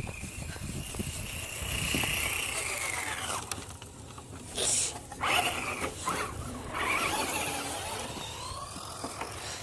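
Radio-controlled truck's motor whining, rising and falling in pitch as it speeds up and slows down, with a couple of short rushing noises about halfway through.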